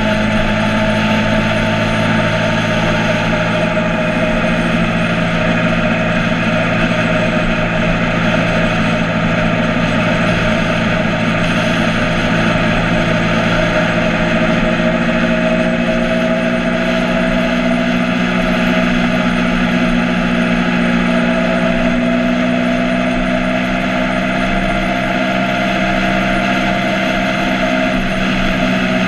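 Motorcycle engine running steadily while riding, its pitch shifting slightly about halfway through.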